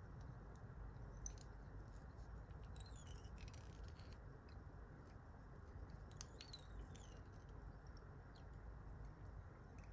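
Near silence: faint steady hiss with a few soft small clicks and short high chirps.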